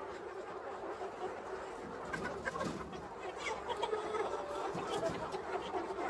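A flock of chickens clucking quietly, with short scattered calls over a steady low background.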